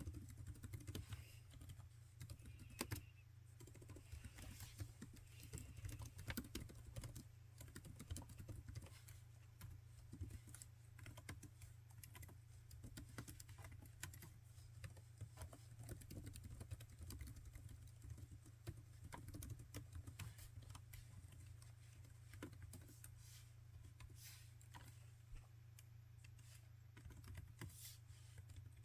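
Laptop keyboard being typed on, quiet keystrokes clicking in a fast, uneven stream. A steady low hum runs under it.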